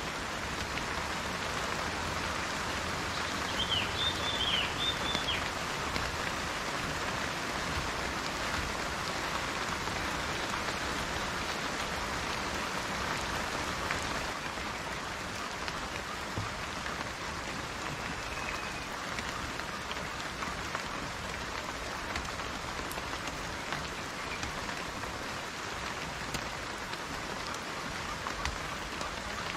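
Steady rain falling, an even hiss of drops on surfaces. A few short high chirps come through about four seconds in, and a faint one later.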